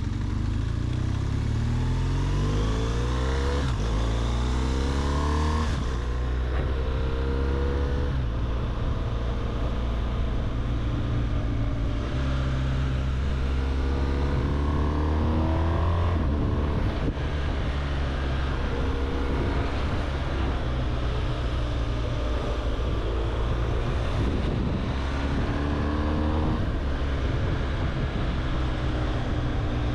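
BMW R1200GS flat-twin boxer engine running while riding. Its pitch climbs and drops several times as it accelerates and eases off, with steadier stretches in between.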